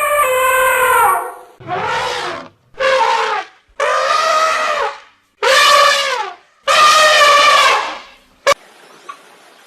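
A series of about six drawn-out, pitched animal calls, each lasting around a second, several dropping in pitch at their ends, followed near the end by a short sharp click.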